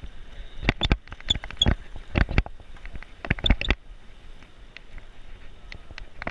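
A bicycle rattling and clicking as it rolls along the road, in several short bursts of sharp clicks during the first few seconds, then only faint ticks, over steady road and wind noise.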